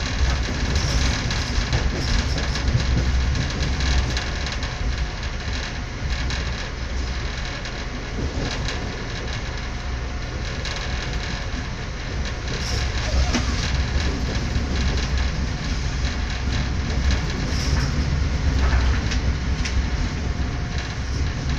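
Passenger train running, heard from inside the carriage: a steady low rumble with scattered clicks from the wheels on the rails.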